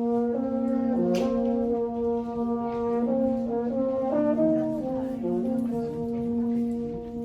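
Brass quartet playing: a low note held steadily throughout, while the upper voices move through changing chords and then settle back onto a sustained chord near the end.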